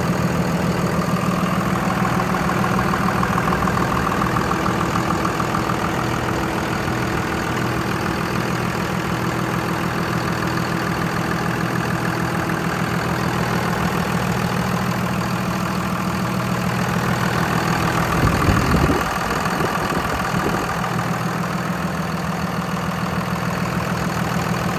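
A 5.9L HO Cummins inline-six turbo diesel in a 2001 Dodge Ram 2500, fitted with an aftermarket exhaust, idling steadily. There is a brief louder surge about eighteen seconds in before it settles back to idle.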